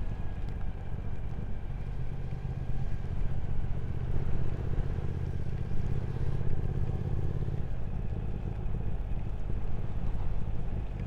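Motorcycle engine running under way, steady, its note changing and easing about eight seconds in.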